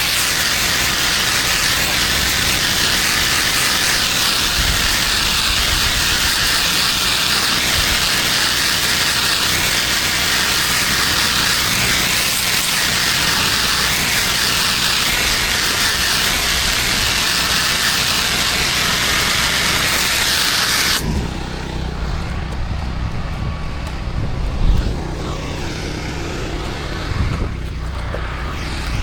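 Pressure washer spraying water at high pressure, a steady loud hiss that cuts off suddenly about three quarters of the way through. A low, steady engine hum carries on after it, with a couple of short thuds.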